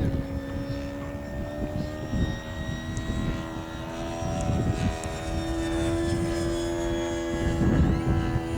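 Radio-controlled warbird model plane's motor and propeller droning steadily in flight, rising a little in pitch partway through. Wind buffets the microphone in gusts.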